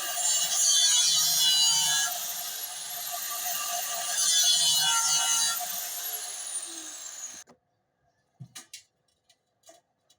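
Angle grinder running and cutting into a steel gas cylinder, the cutting noise swelling loudly twice. The grinder cuts off suddenly about seven seconds in, followed by a few short metallic clinks.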